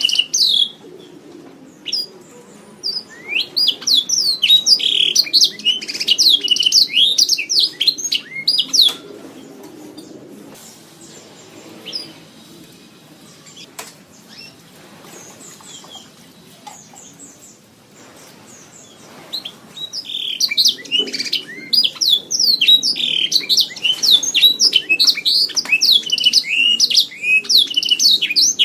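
Domestic canary singing: long runs of rapid, trilling chirps and warbles, pausing for several seconds in the middle before starting up again.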